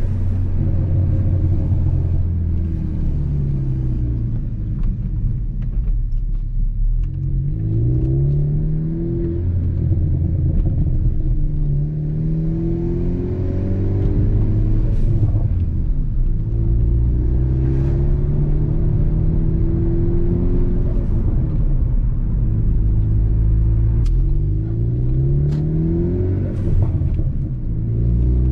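Ford Focus ST's turbocharged 2.0-litre EcoBoost four-cylinder, through a Borla cat-back exhaust, pulling through the gears: its pitch climbs, drops back at each shift and climbs again, several times. A few faint sharp cracks come in the second half.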